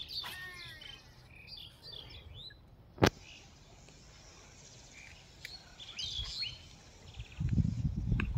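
Birds chirping and calling in short curved notes, busiest in the first couple of seconds and again around six seconds in. A single sharp click comes about three seconds in, and a low rumble starts near the end.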